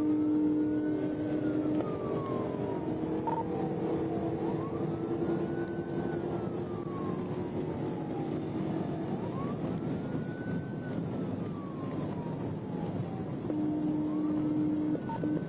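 Police siren wailing: a quick rise then a slow fall in pitch, repeating about every four and a half seconds, over steady road and engine noise.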